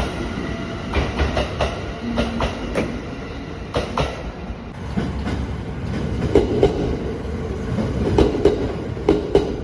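A train running, its wheels clattering over the rails: irregular sharp knocks over a steady low rumble, the knocks loudest in the second half.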